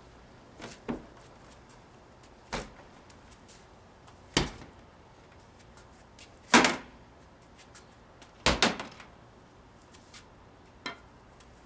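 Wooden jo staff strikes being performed: about six short, sharp sounds spaced a second or two apart, the loudest a little past halfway.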